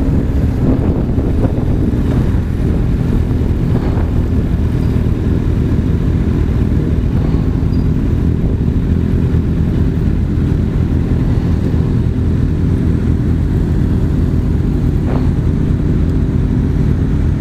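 Big motorcycle running steadily under way, a dense low engine rumble that holds without a break.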